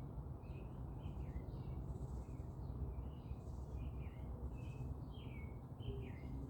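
Several small birds chirping and twittering in quick, overlapping short calls, over a steady low background rumble.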